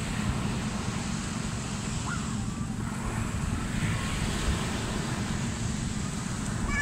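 Ocean surf washing on a beach, with a steady low rumble of wind on the microphone; a faint short voice-like cry is heard about two seconds in.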